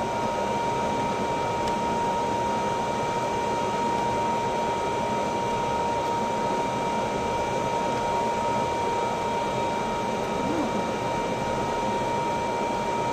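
Steady mechanical hum with a constant high-pitched whine running through it, like fans or ventilation machinery; no gunshots.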